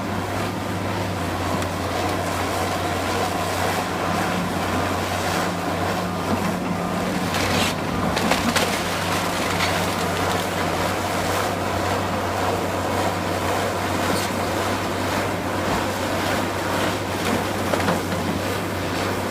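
Diesel engine of heavy demolition machinery running steadily, with crunching of debris and a few sharp knocks about eight seconds in.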